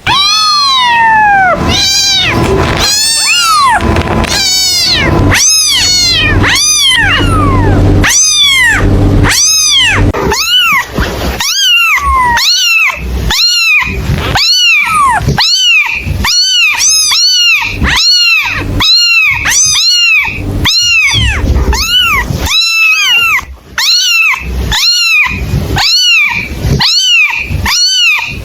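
Kitten meowing over and over in high-pitched calls, each rising and then falling in pitch, about one a second. A low steady hum runs under the calls for roughly the first ten seconds, then stops.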